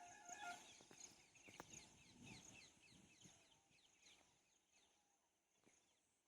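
Small birds chirping faintly: a quick run of short, high, falling chirps that thins out after about four seconds, with a brief two-note call at the start.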